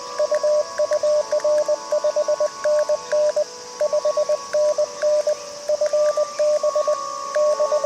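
Morse code from an amateur radio transceiver: a strong tone keyed in quick dots and dashes, with fainter CW signals at other pitches over steady band hiss.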